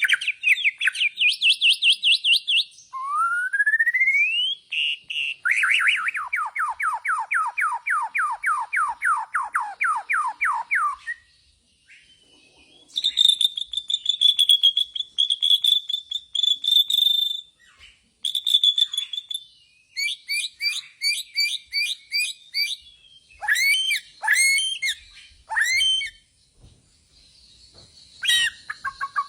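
Bornean white-rumped shama (murai batu Borneo) singing a varied song. It runs through fast strings of repeated notes, a rising whistled glide, a long steady whistle and choppy sweeping phrases, with short pauses between phrases.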